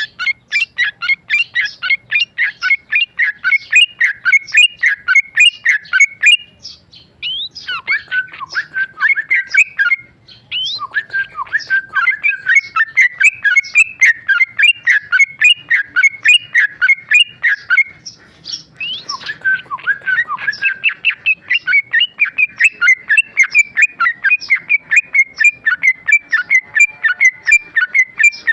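Yellow-vented bulbul (trucukan) singing a long, rapid run of loud chattering, whistled notes, about five a second, broken by brief pauses. This is its continuous 'ropel' song.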